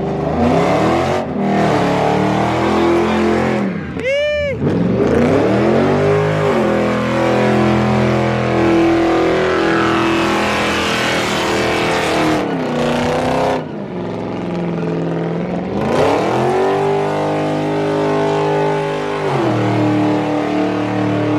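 A car engine revving hard: the revs are blipped up and down several times and held high and steady for several seconds at a stretch.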